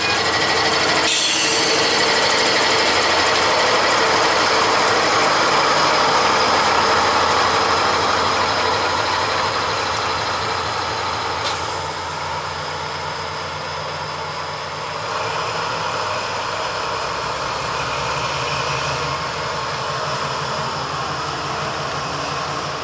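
A train running past close by, a loud steady rumble and rush that is loudest for the first ten seconds and then eases off, with a steady low engine tone in the second half.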